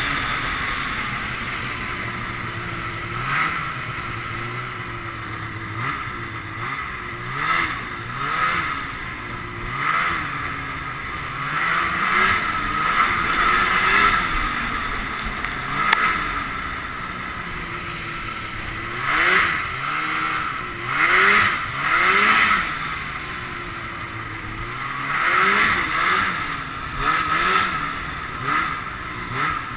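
Ski-Doo Blizzard 5500 snowmobile's fan-cooled Rotax twin two-stroke engine, revving up and falling back again and again while riding, with repeated bursts of rushing noise.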